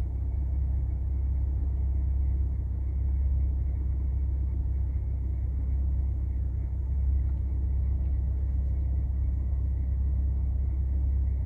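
Steady low rumble inside a car's cabin from the Infiniti G37's V6 engine idling, even and unchanging throughout.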